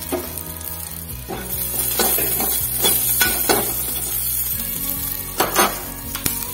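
Chopped garlic and slit green chillies sizzling in a little oil in a kadhai, with a metal spatula scraping and knocking against the pan several times. The loudest strokes come near the end.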